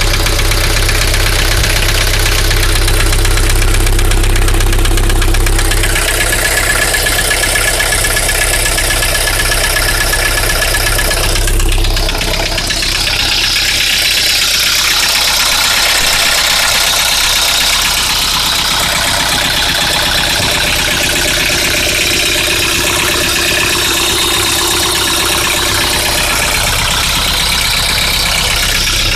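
Nissan CD17 1.7-litre four-cylinder diesel engine idling steadily just after starting, with a persistent engine knock. The owner has ruled out valve-to-piston contact, the rod and main bearings, the piston pin and the injectors as the cause, so the knock remains undiagnosed.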